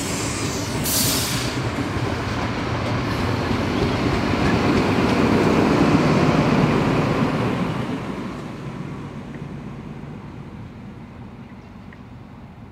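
A train passing by: a steady rumble of wheels on rail builds to its loudest about six seconds in, then fades away as the train recedes. A short high hiss comes about a second in.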